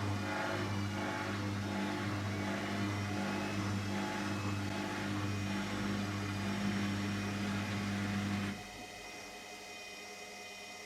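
Hotpoint WMXTF742K washing machine running with a steady, slightly pulsing low hum that cuts off suddenly about eight and a half seconds in, leaving a quieter hum.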